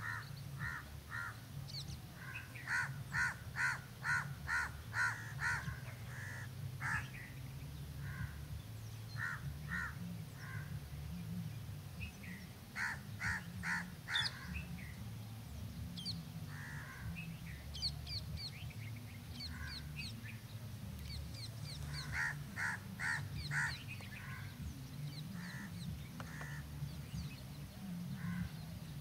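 Harsh, crow-like bird calls in runs of several quick notes, about three a second, coming in bouts with pauses between. Thin high chirps from small birds sound between the runs over a steady low rumble.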